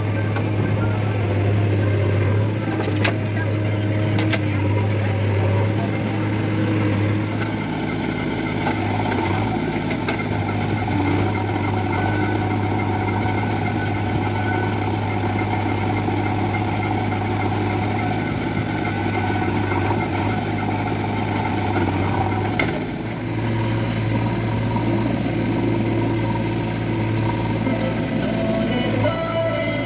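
Heavy diesel engine running steadily with a low hum. There are two sharp knocks about three and four seconds in, and the hum dips briefly about two-thirds of the way through.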